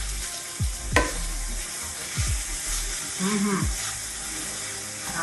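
Minced chicken keema sizzling in a pan while a wooden spatula stirs and scrapes through it, with a sharp knock about a second in and a few soft thuds of the spatula against the pan.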